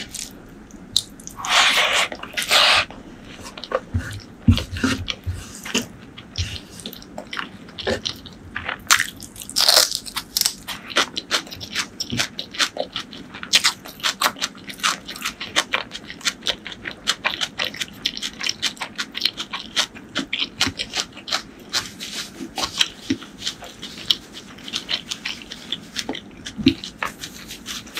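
Close-miked chewing of a handful of curry-soaked rice eaten by hand: a dense run of quick, moist clicks and crunches, with a couple of louder bursts about two seconds in and again about ten seconds in.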